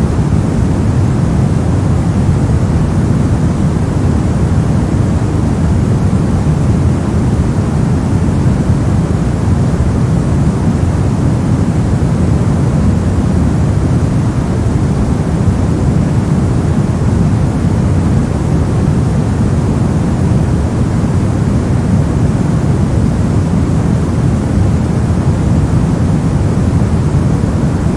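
Continuous generated noise played as a sleep and focus sound, perfectly steady and unchanging, heavier in the low end than in the highs.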